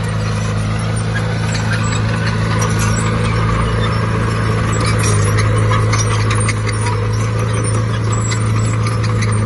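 Heavy diesel earthmoving machinery running steadily, its engine note even throughout, with frequent metallic clanks and rattles over it.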